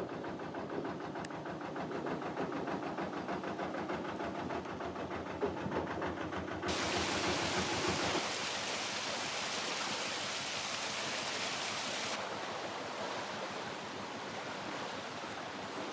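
Narrowboat diesel engine running with an even, rapid beat, which stops about eight seconds in. A steady rushing noise like water runs through the rest, with a loud hiss from about seven to twelve seconds in.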